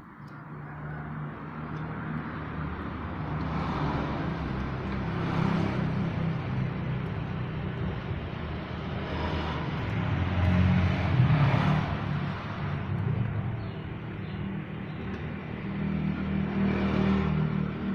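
Road traffic: engines running with vehicles passing by, the sound swelling several times as they go past.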